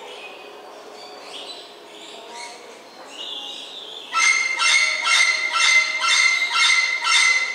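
A bird calls a loud, pitched note over and over, about eight times at roughly two a second, starting about four seconds in. Faint chirping comes before it.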